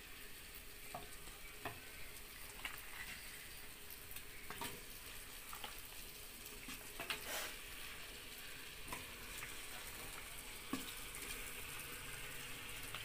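Onion-tomato masala sizzling faintly in a clay pot as raw chicken pieces are dropped in by hand, with scattered soft plops and clicks.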